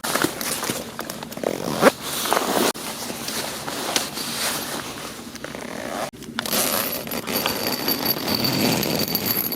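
Close rustling and crackling of nylon camping gear being handled, with a brief break about six seconds in.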